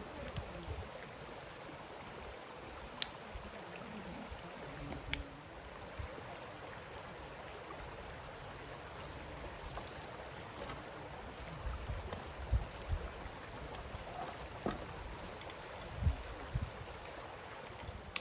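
Steady rushing noise like running water, with irregular low wind rumble on the microphone and two sharp clicks.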